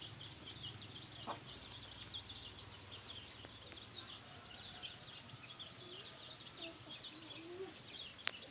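Faint rural outdoor ambience: a steady chorus of many short high chirps, with a few faint low calls after the middle and a couple of sharp clicks near the end.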